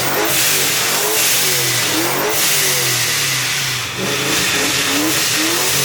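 Vortech-supercharged Ford two-valve 4.6 V8 being revved over and over, its pitch climbing and falling about once a second, with short hisses from the supercharger blow-off valve.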